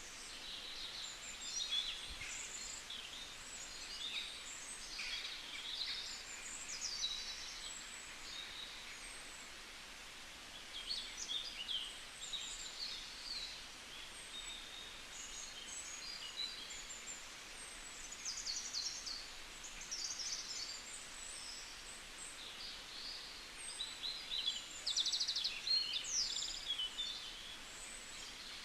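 Many birds calling at once, a dense chatter of short high chirps and trills that overlap continuously, busiest near the end.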